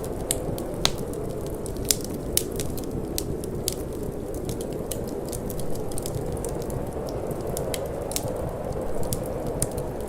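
Wood fire crackling, with frequent irregular sharp pops and snaps, over a steady low rushing of wind.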